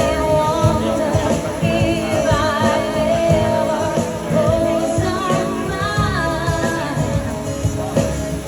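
Live band music: a wavering, vibrato-laden melody line over guitar, bass and a steady pulse of low beats.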